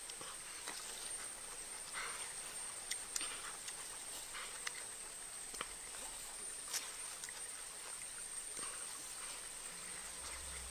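Close-up eating sounds: irregular crisp chewing clicks and mouth smacks of someone eating raw bamboo shoot with chili, with a steady high-pitched whine in the background.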